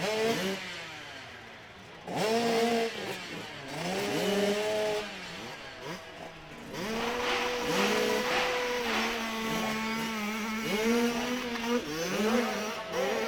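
Hill-climb motorcycle engine revving hard, its pitch climbing and falling back again and again as the throttle is worked.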